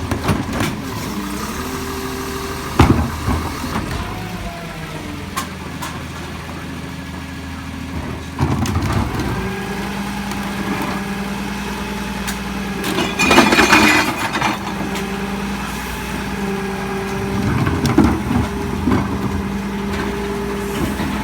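Recycling truck's diesel engine running, stepping up in speed about eight seconds in as the lift works. About thirteen seconds in there is a loud clattering rush as the cart's recyclables are dumped into the hopper, with a few sharp knocks around it.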